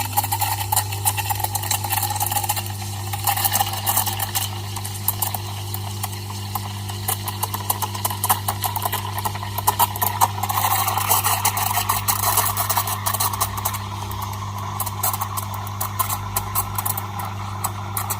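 Espresso machine steam wand steaming milk in a pitcher: a steady hiss with fine crackling over a low machine hum, the tone of the hiss changing and getting fuller about ten seconds in as the milk texture develops.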